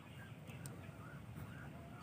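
Faint, quick bird chirps repeating several times a second, over a low steady hum.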